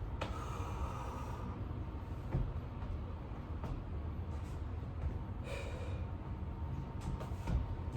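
Heavy, hard breathing of a person exerting himself through burpees, with a few short thumps.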